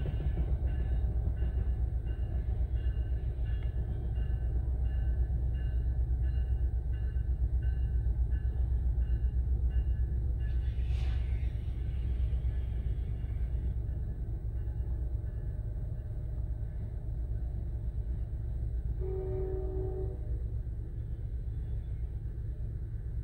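NJ Transit Comet V commuter coaches rolling past a grade crossing, a steady low rumble of wheels on rail heard from inside a car, with the crossing's warning bell ringing about twice a second until about halfway through. Near the end, a train horn sounds once, briefly.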